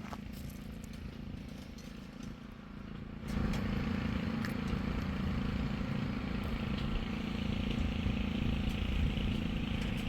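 Truck engine running steadily, stepping up to a louder level about three seconds in and holding there.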